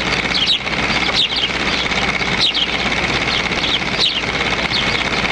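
Small birds giving short falling chirps, several every couple of seconds, over a loud steady hiss with a thin high whine running under them.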